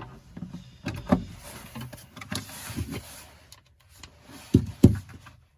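Handling noises on a work surface: scattered light knocks and rubbing, with two louder thumps close together near the end.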